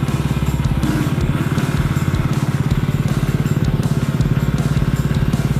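Motorcycle engine running steadily at low revs: a fast, even putter that neither rises nor falls.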